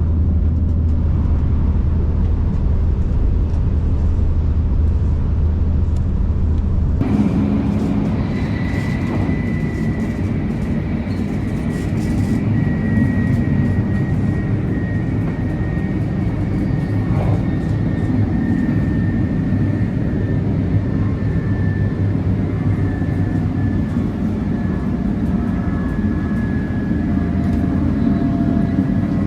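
Shinkansen train running, a steady low rumble and hum. About seven seconds in the sound changes abruptly to a fuller rumble, with a faint high whine that slowly falls in pitch.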